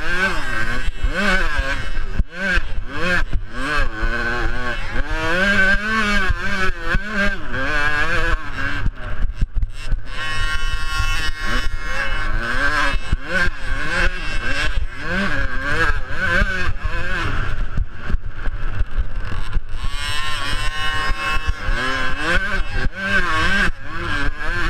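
Small two-stroke youth motocross bike engines revving up and dropping back over and over as the bikes race round the track, several pitches rising and falling against each other.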